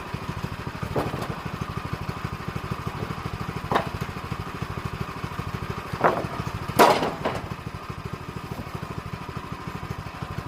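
Small engine idling with a steady, rapid even beat, with a few sharp knocks, the loudest about seven seconds in.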